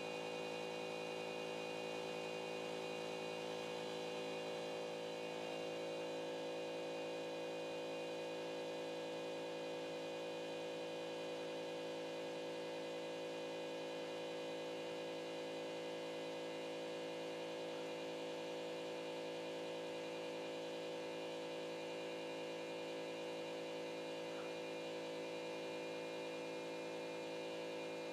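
Steady electrical hum of a CNC pen-drawing machine, many even tones held without change.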